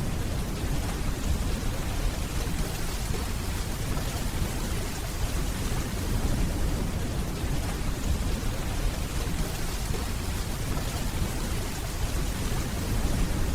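Steady, even rainfall with a low rumble underneath from distant thunder, with no sharp claps.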